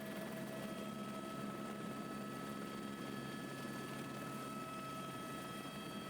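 Multirotor camera drone running steadily, its motors and propellers giving an even hum made of several fixed pitches over a rushing noise.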